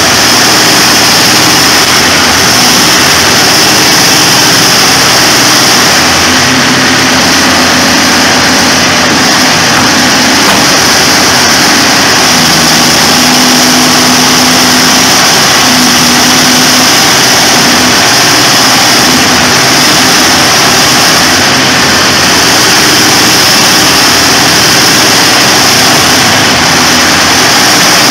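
The Poclain 1000 excavator's twin V12 engines running steadily and loud, close to the microphone.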